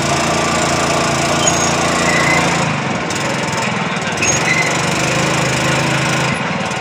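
A wooden passenger boat's engine running steadily under way, heard from on board; its low hum shifts slightly about three seconds in.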